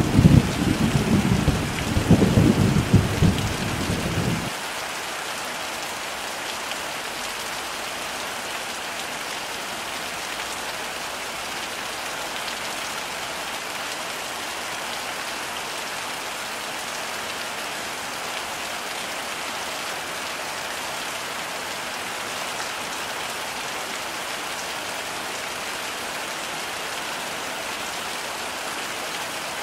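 Heavy rain falling steadily with an even hiss. A loud, low thunder rumble fills the first four seconds or so, then stops abruptly, leaving only the rain.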